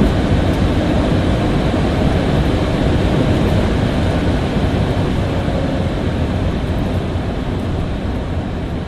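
A car driving, with a loud, steady low rumble of engine and road noise that eases slightly toward the end.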